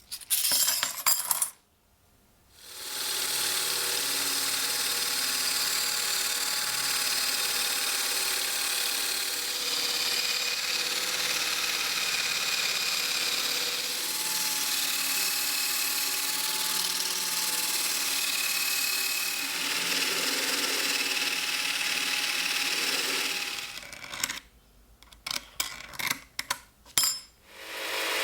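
A small electric power tool, such as a grinder, sander or rotary tool, runs steadily for about twenty seconds on metal work, with a light hum and whine that wavers slightly. Short clicks and knocks of metal parts being handled come just before it starts and again after it stops.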